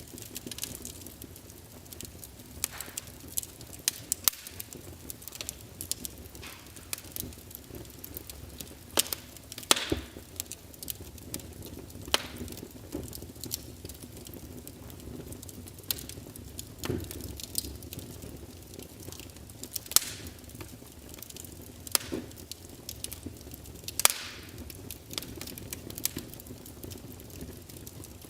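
Wood fire crackling in a fireplace: irregular sharp snaps and pops over a steady low rumble of flame.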